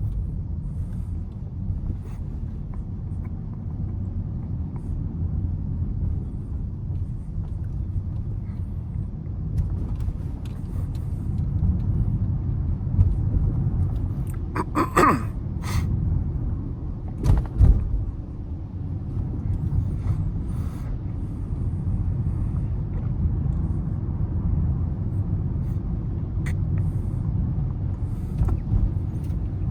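Car driving through city traffic: a steady low rumble of engine and tyres on the road, with a brief sharp clatter and a couple of knocks about halfway through.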